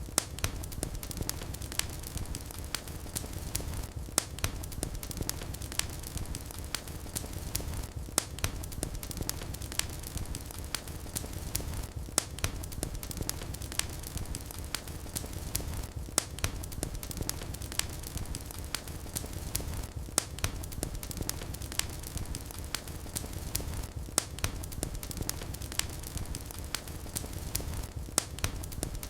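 Wood fire in a fireplace crackling, with sharp pops and snaps over a low steady rumble of flames. The pattern of louder pops repeats about every four seconds.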